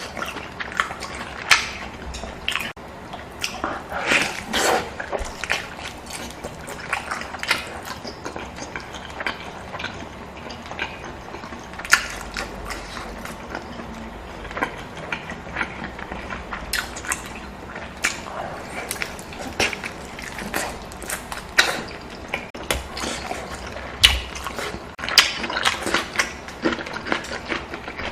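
Close-miked eating sounds: chewing and wet mouth smacks, with many short sharp clicks coming irregularly throughout.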